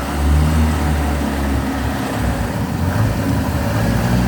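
Ford Escort RS Turbo's turbocharged 1.6-litre four-cylinder engine running at low revs, a steady low rumble, as the car creeps slowly forward.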